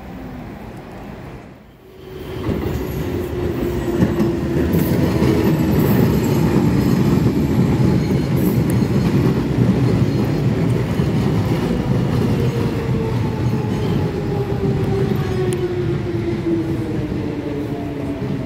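London Underground Jubilee line 1996-stock train pulling into the platform, a loud rumble with a motor whine that falls slowly in pitch as the train slows. The sound swells about two seconds in.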